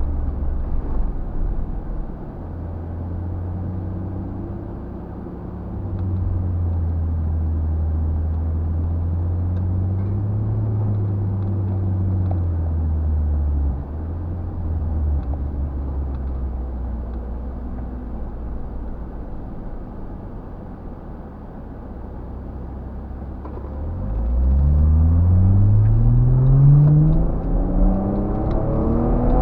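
4x4 vehicle engine driving off-road on desert sand, its pitch drifting up and down with the throttle. About 24 seconds in it revs up hard, the pitch climbing steeply for about three seconds, and it climbs again near the end.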